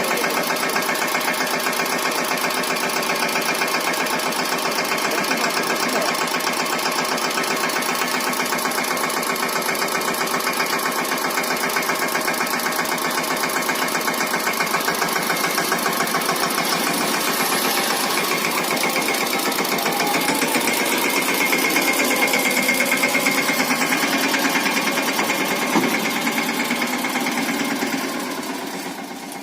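Mahindra Yuvraj 215 NXT mini tractor's single-cylinder diesel engine running steadily with a fast, even clatter, dropping in level just before the end.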